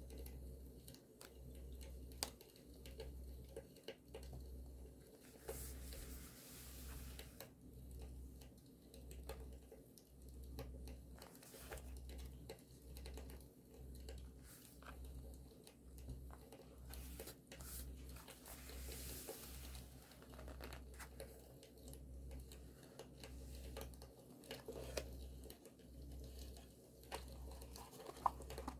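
Campfire crackling softly, with scattered small pops, under close-up paper handling: rustling and crinkling, and two longer tearing sounds, one a fifth of the way in and one past the middle.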